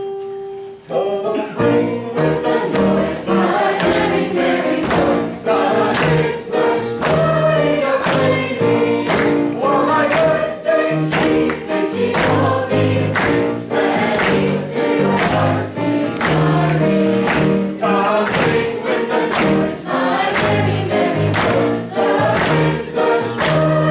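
Gospel-style choir song with a steady drum beat and bass line, starting about a second in.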